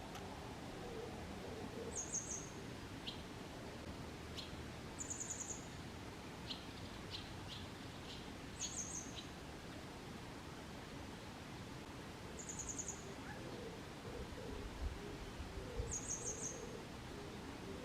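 Grey wagtail singing: short, very high, quick trilled phrases repeated about every three to four seconds, five times, with a few sharp single notes between them.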